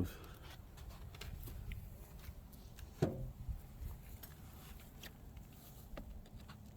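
Light clicks and knocks of wooden beehive boxes being handled and lifted, over a faint low steady hum, with a short grunt about three seconds in.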